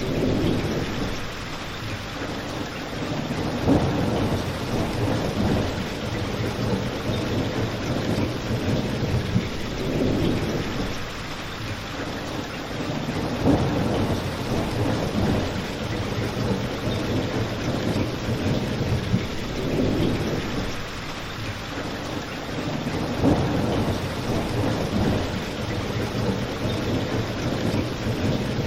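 Steady rain mixed with a crackling fireplace, with a few sharp pops and swelling low rumbles.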